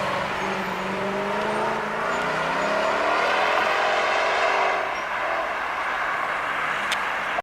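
Supercar engine accelerating, its pitch climbing for a few seconds and then easing off. There is a single sharp click near the end.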